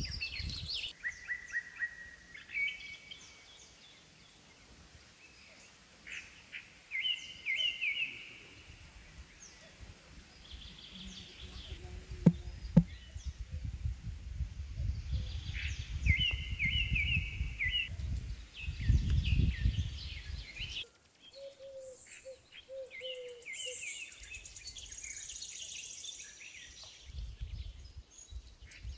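Birds singing in repeated short chirping phrases, with a low rumbling noise building through the middle and two sharp clicks about twelve seconds in.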